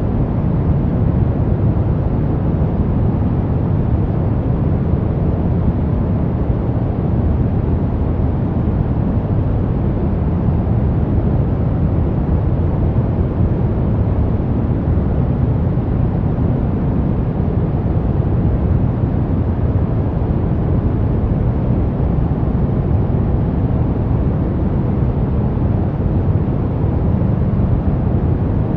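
Brown noise: a steady, unchanging deep rumbling hiss, strongest in the bass and falling away toward the treble.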